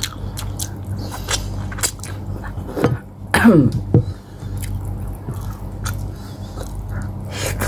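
Close-up chewing and mouth sounds of someone eating pork hock with rice by hand: a run of short wet clicks and smacks, with a brief falling 'mm' hum about three and a half seconds in.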